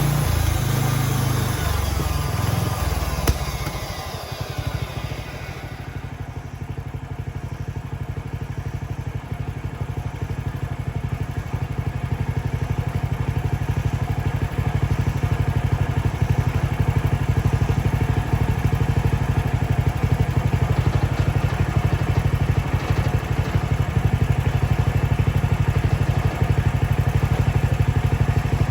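Gasoline engine of a Mechmaxx band sawmill running. A high whine falls away over the first few seconds as it slows, with a single knock among it. It then runs on at a lower, steady pace that grows gradually louder.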